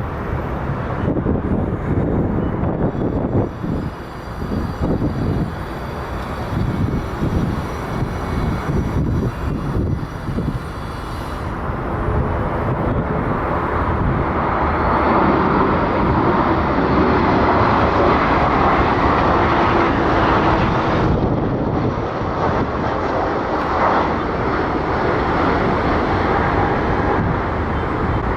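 Airliner's engines running: an uneven low rumble that builds, about halfway through, into a loud steady roar.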